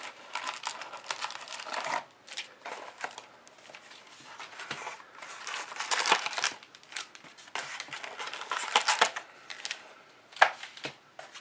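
Trading card packs in crinkly wrappers being taken out of a cardboard hobby box by hand, rustling and crinkling in irregular bursts.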